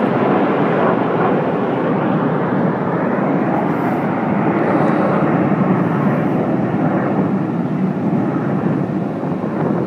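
Loud, steady rushing jet noise from the Red Arrows' BAE Hawk T1 jet trainers flying their display.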